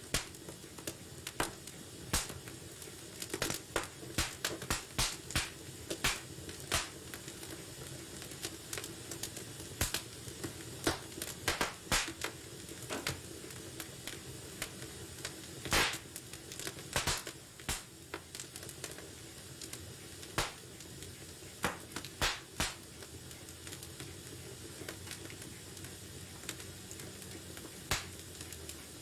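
Wood fire burning in a fireplace, crackling and popping at irregular intervals over a steady low hiss.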